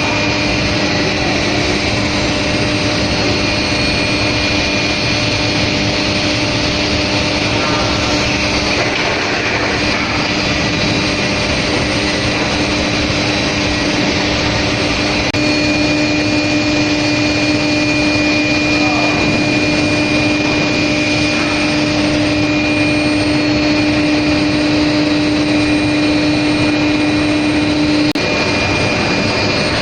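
A steel plate induction hardening line running: steady, loud machine noise with steady hum tones. A stronger low hum comes in about halfway through and cuts off near the end.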